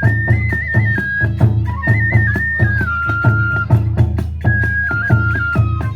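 Kagura hayashi music: a transverse bamboo flute playing an ornamented, trilling melody over a fast, steady beat of drums and small hand cymbals. The flute breaks off briefly a little past the middle while the beat carries on.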